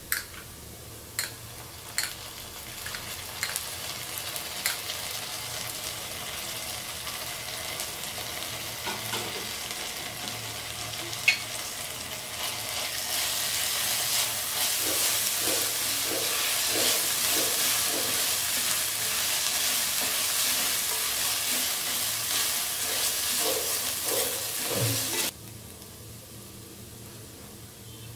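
Chopped onions sizzling as they fry in oil in a steel pot, with sharp taps and scrapes of a spatula against the pot as they are stirred. The sizzle grows much louder once green chilli–ginger paste is in, with a steady run of stirring strokes, then cuts off suddenly about three seconds before the end.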